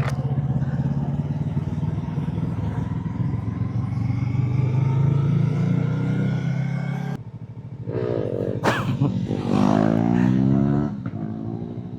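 Motorcycle engine under way, its pitch climbing steadily as it accelerates, then dropping off suddenly about seven seconds in before a series of quick rising revs.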